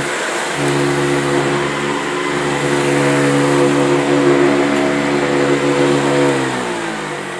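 Hoover Convertible upright vacuum cleaner running steadily with a pitched motor whine. About six seconds in it is switched off and the motor winds down, its pitch falling.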